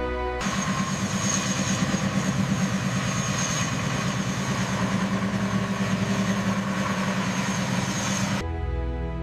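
CH-47 Chinook tandem-rotor helicopter running, with rapid rotor pulsing under a steady high whine. It starts about half a second in and cuts off abruptly near the end, giving way to music.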